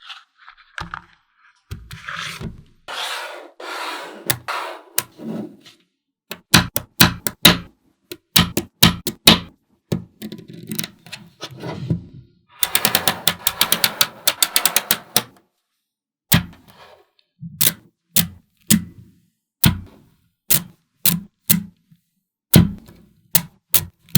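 Magnetic balls clicking sharply as they snap onto one another, in irregular single clicks and short quick runs. A few seconds of dense rapid clicking come about halfway through.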